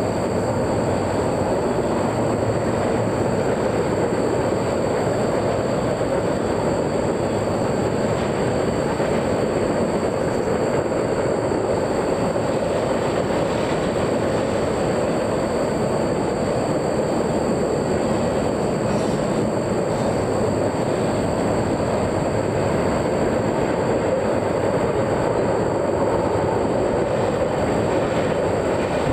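A train rolling past, its cars giving a steady, unbroken rumble of wheels on rail, with a faint steady high whine over it.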